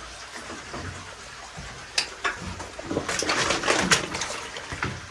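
Scraping, shuffling and clothing rustle from a person working through a narrow rock passage in a cave, with a sharp knock about two seconds in and a busier stretch of scraping a second later.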